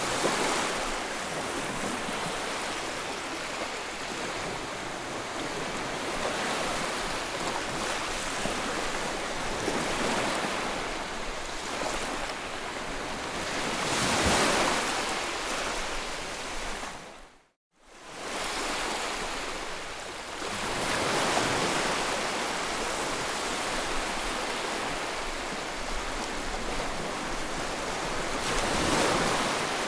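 Ocean surf: waves breaking and washing in a steady rush that swells and ebbs every several seconds. The sound drops out abruptly for under a second a little past halfway, then returns.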